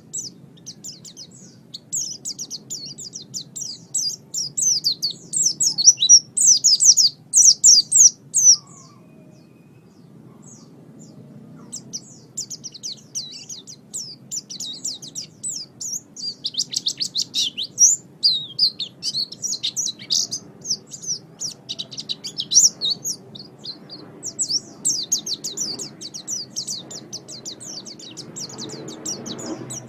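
Pleci (white-eye) singing: long phrases of rapid, high, twittering chirps, with a short pause about a third of the way in before the song resumes.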